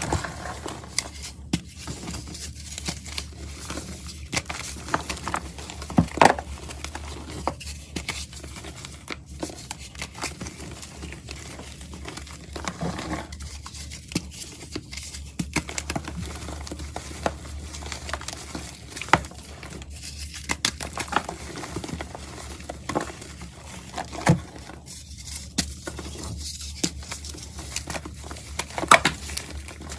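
Dry crunching and crumbling of a crunchy, powdery material, close up, with irregular crackles and a few sharper cracks.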